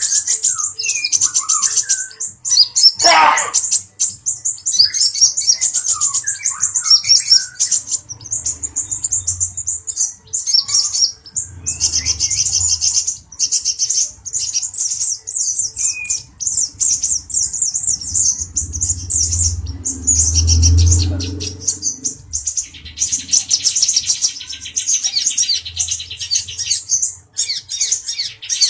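Male kolibri ninja sunbird singing rapid, high trilling chatter, with scattered lower chirps and a falling whistle about three seconds in. A brief low rumble about twenty seconds in.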